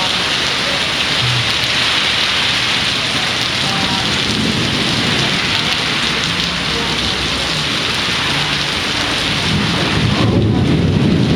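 Heavy rain pouring steadily in a thunderstorm, with low thunder rumbling that is strongest near the end.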